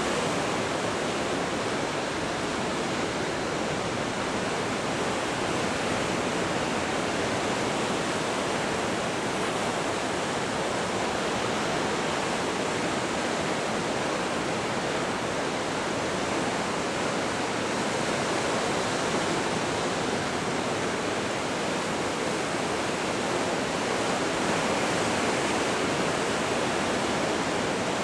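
Pacific surf breaking along a rocky shore, heard as a steady, even wash of noise with no single wave standing out.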